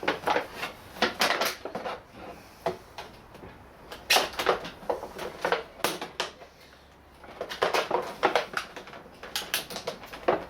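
Hands working at a toy's plastic packaging: irregular clicks and crinkles as the twist ties holding it in are undone, with a quieter pause about two-thirds of the way through.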